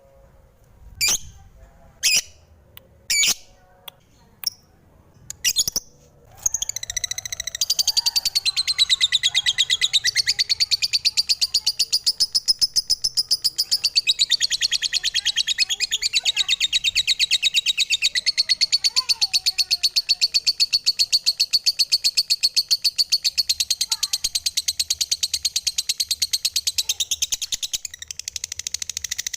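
Lovebird calling: a few sharp single chirps about once a second, then from about six seconds in a continuous, rapid, high-pitched chattering twitter.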